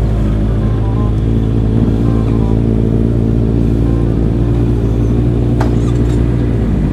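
Motorcycle engines idling with a steady hum, and a single sharp click about five and a half seconds in.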